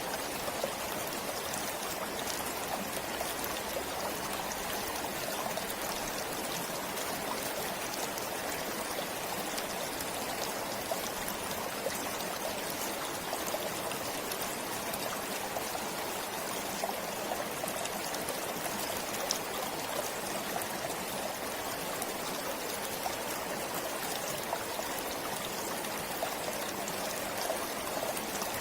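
Forest stream flowing steadily, water trickling and splashing over rocks.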